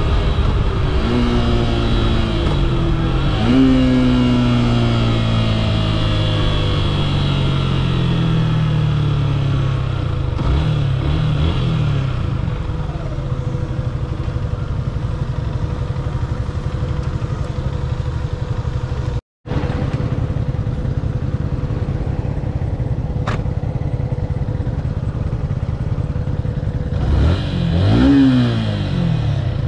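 Yamaha FZ S V3's 150cc single-cylinder engine heard from the rider's seat, its pitch falling over the first several seconds as the bike slows, then running at low revs. Near the end it revs up briefly and drops back. The sound cuts out completely for a moment about two-thirds of the way through.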